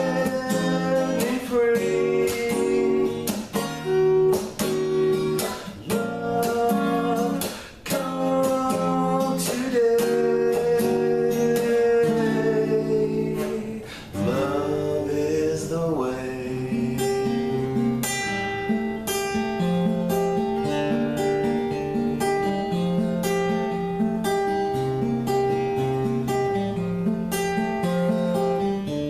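Acoustic guitar playing an instrumental break in a love song, strummed chords with picked notes, with a gliding, sliding phrase about halfway through.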